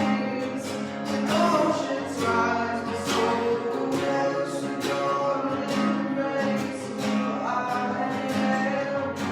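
Live worship music led by a strummed acoustic guitar, with sustained held notes beneath it.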